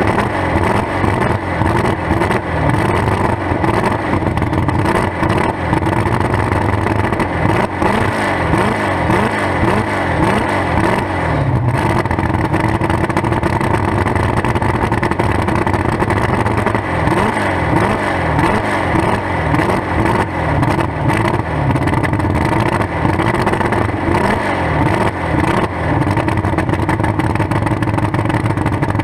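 A demolition derby muscle car's engine runs loud through open exhaust pipes sticking up through the hood, revved up and down over and over, with a steadier stretch about midway.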